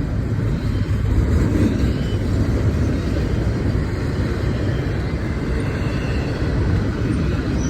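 Intermodal freight train's container well cars rolling past, a steady low rumble of steel wheels on the rails.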